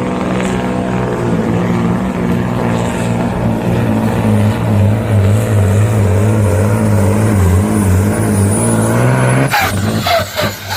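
A pulling truck's engine running hard under load during a truck-pull run, its pitch wavering up and down, then stopping abruptly near the end.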